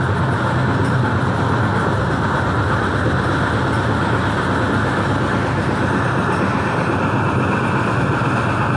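Passenger train running steadily along the track, a loud continuous rumble of wheels on rail with a rush of air, heard from an open coach end. It cuts off abruptly at the very end.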